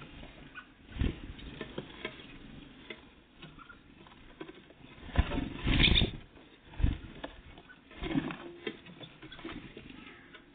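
Tits (great tits and blue tits) at a bird feeder: irregular tapping and scrabbling as they peck at seed and shift about on the feeder, with a louder flurry of scuffling about five to six seconds in.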